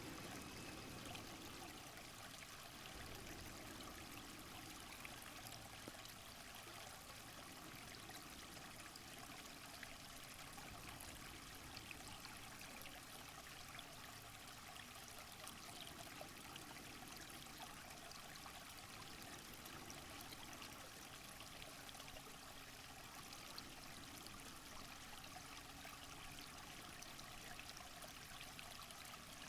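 Faint, steady rush of running water, with no distinct events.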